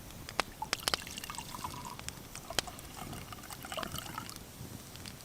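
Mead being poured into a drinking mug, the liquid gurgling out in two spells.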